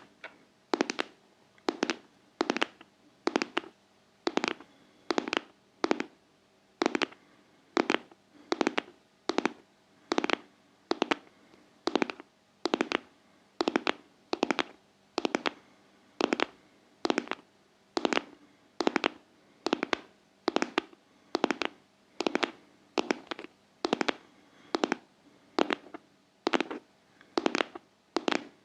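Intense ASMR heart-tapping: sharp taps repeating at a steady, even pace, a little over one a second.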